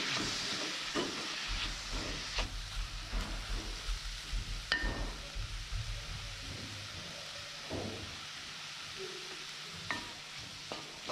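Diced chicken and mushrooms sizzling in a metal pot while a wooden spatula stirs and scrapes through them in quick repeated strokes, with a sharper knock of the spatula on the pot about five seconds in and again near ten seconds.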